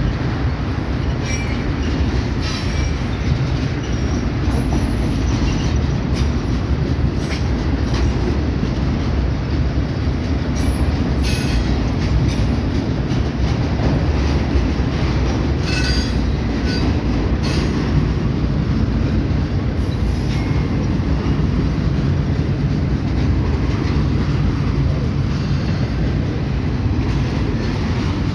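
A Kansas City Southern train's cars rolling past with a steady, loud rumble. Short high-pitched wheel squeals and clicks come now and then, several of them in the first half.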